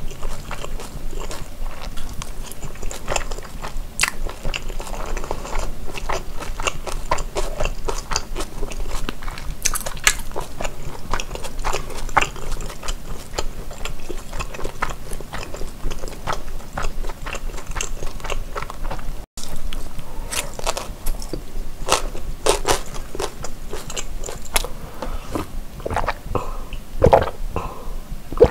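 Close-miked eating sounds: a person biting and chewing tteokbokki and fried snacks, with crunchy bites of pickled yellow radish. Many short clicks and crunches follow one another, with a brief gap about two-thirds of the way in.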